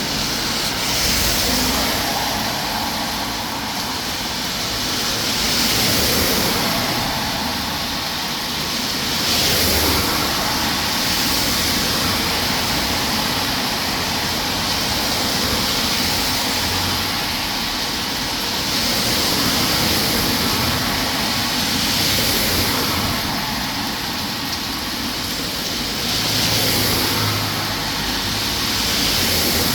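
Steady hiss of heavy rain mixed with traffic passing on a wet road, the noise swelling as a vehicle goes by every few seconds.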